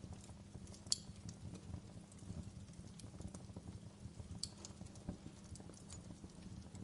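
Wood fire crackling in a fireplace: scattered sharp pops and snaps, the loudest about a second in and another a little past the middle, over a low steady rumble of burning.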